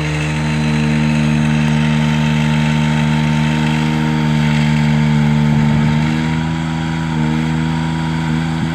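Engine of a 2002 GMC forestry bucket truck running steadily, its pitch and level dropping slightly about six seconds in.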